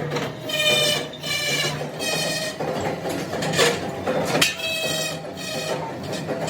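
Metalworking machinery running in a rim factory: a ringing metallic note that recurs about every 0.7 seconds over a low hum, with two sharp clanks near the middle.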